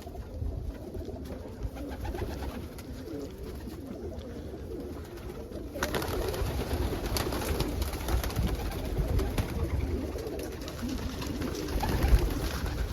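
Domestic pigeons cooing together in a loft, a low, continuous murmur of overlapping coos that grows louder about halfway through.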